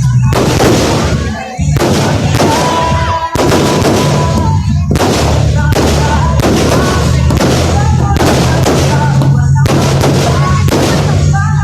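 Fireworks display: a fast run of loud bangs, about one to two a second, overloading the microphone, over a steady low rumble.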